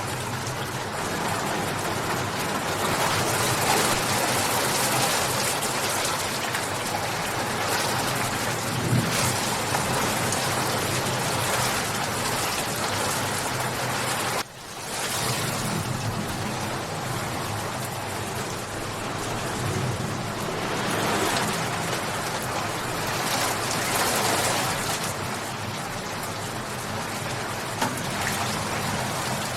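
Steady rain falling, the downpour swelling and easing, with a brief sharp drop in level about halfway through.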